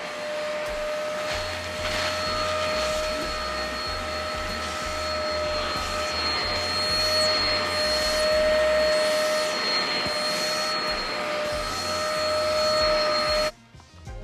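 Hoover Spotless portable carpet and upholstery spot cleaner running, its suction motor giving a steady whine over rushing air, then switched off suddenly near the end.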